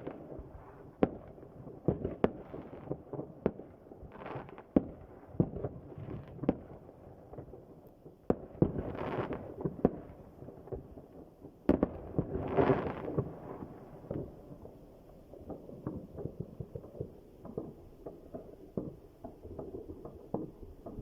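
New Year fireworks going off: a steady string of sharp bangs and pops at uneven intervals, with two longer rushes of noise about nine and twelve seconds in.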